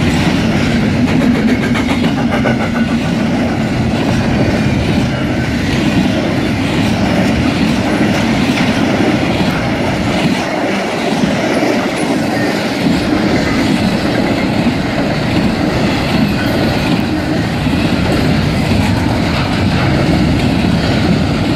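Double-stack intermodal freight cars and trailer flatcars rolling past close by: steel wheels clattering over rail joints in a steady, loud rumble.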